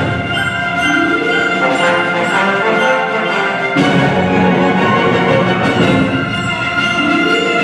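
Symphony orchestra playing a classical-style holiday arrangement, full chords held by brass and strings, with a sharp new chord struck by the whole orchestra about four seconds in.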